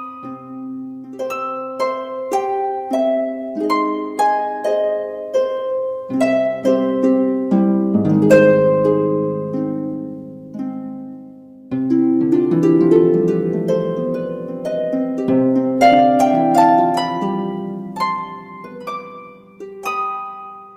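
Background music of plucked harp notes playing a gentle melody over arpeggiated chords, fading out near the end.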